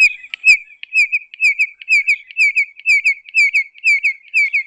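Red-crested korhaan calling: a few clicks give way to a long, even series of high, piping double whistles, about four notes a second.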